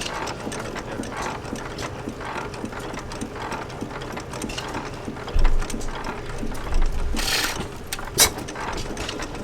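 Armstrong 6 hp cam-wobbler hit-and-miss engine running, with a busy mechanical clatter from its cam gearing and valve gear and a regular beat about once a second. Brief low rumbles of wind on the microphone twice in the latter half.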